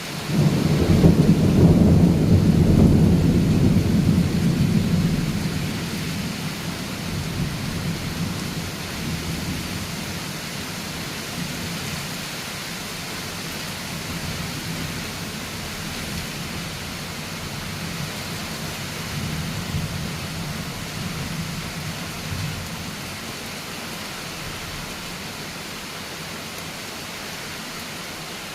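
A thunderclap right at the start rolling into a loud, deep rumble that dies away over about six seconds, with fainter rumbles later on. Steady rain falls throughout.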